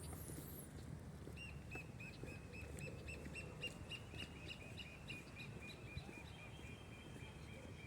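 A bird calling a long, even series of short, high notes, about five a second, starting a little over a second in. Near the end a steady high tone joins it, over a low background rumble.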